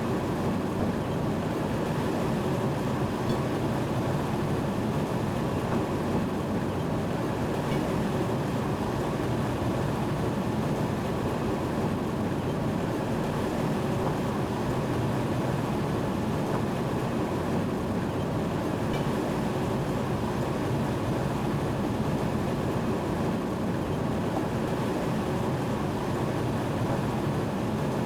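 Train running, heard from inside the driver's cab: a steady, unchanging rumble of the moving train.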